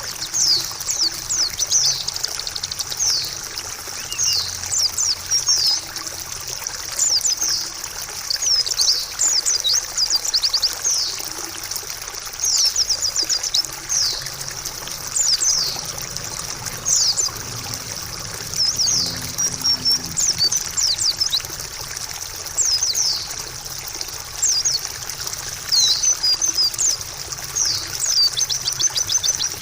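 White-eye (pleci) song: quick runs of high, thin chirps in short bouts every second or two, over a steady trickle of running water.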